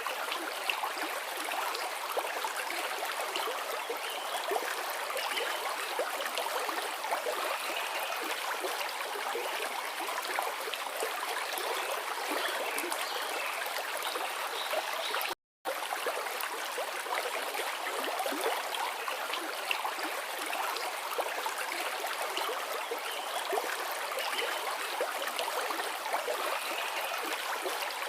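Forest river flowing, a steady rushing and babbling of water that cuts out completely for a split second about halfway through.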